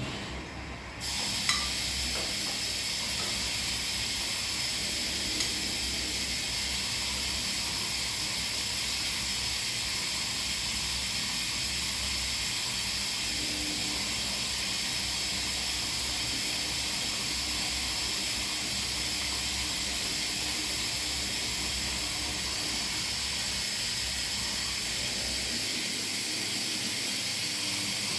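Washing machine giving a steady hiss that starts suddenly about a second in, with a low hum underneath that stops near the end.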